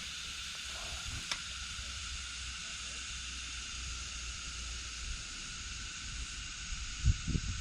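Steady high-pitched drone of insects, with a low rumble of wind on the microphone underneath. A single sharp click about a second in, and a few low knocks near the end.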